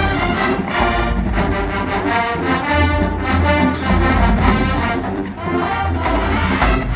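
Marching band playing at full volume, brass section to the fore with trombones and low brass over a steady pulsing bass.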